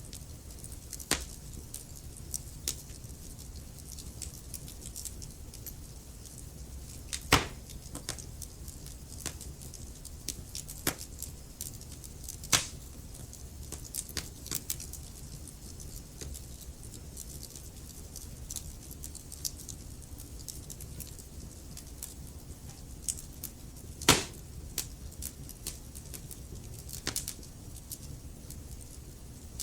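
Wood fire crackling in a fireplace: irregular sharp snaps and pops over a low steady rumble of the flames, with three louder pops about 7, 12 and 24 seconds in.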